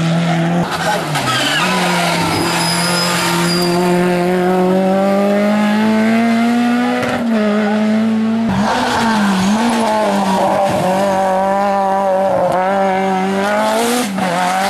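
Race car engine running hard at high revs. The pitch climbs slowly for several seconds, breaks off sharply about halfway through, dips twice as the car lifts or changes gear, then climbs again near the end.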